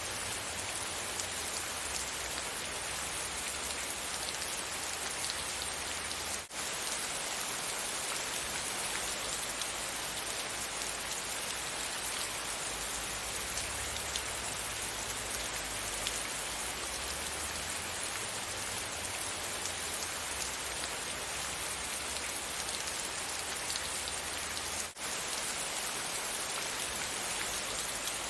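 Steady rain falling, an even hiss of many drops with a low rumble beneath, broken twice by a momentary dropout in the sound.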